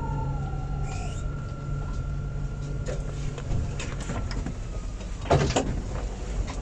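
Alstom Citadis 402 tram: a steady low electrical hum with a thin high whine that fades out about four seconds in. A short burst of knocks and rattles comes about five seconds in.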